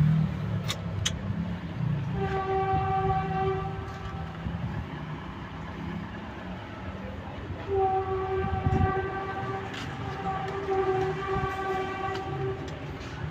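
A steady horn-like tone at one fixed pitch, sounding in several long stretches of about two seconds each, over a constant low rumble.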